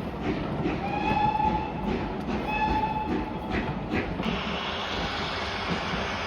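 A steam locomotive's whistle gives two short blasts of the same pitch, about a second and two and a half seconds in, over the rumble and clanking of the train. From about four seconds in, a steady hiss of steam takes over.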